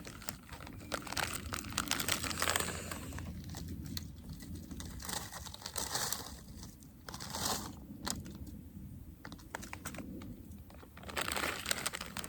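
A plastic bag of pre-cut vegetables crinkling and rustling as it is handled and opened, in irregular bursts with short pauses.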